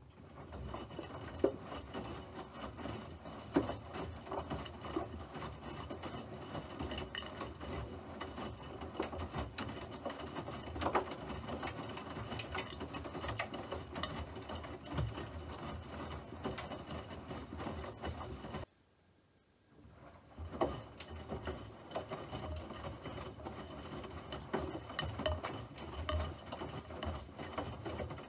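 A small machine running with a dense, even clatter of fast clicks. It stops abruptly for about a second two-thirds of the way through, then starts again.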